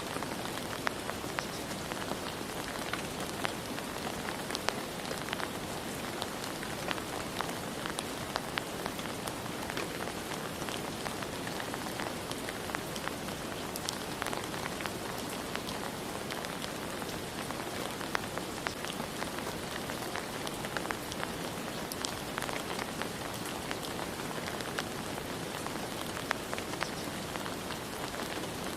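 Steady rain falling, with many separate drops hitting distinctly among the even hiss.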